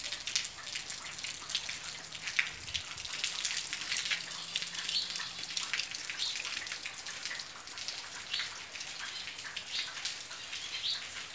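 Rain falling, with many separate drops striking the ground and nearby surfaces as scattered short ticks.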